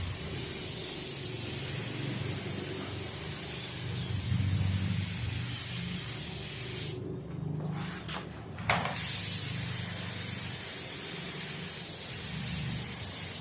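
Compressed-air paint spray gun hissing steadily as topcoat is sprayed onto a car body. The spray stops for about two seconds a little past halfway, with a few short clicks, then starts again. A low hum runs underneath.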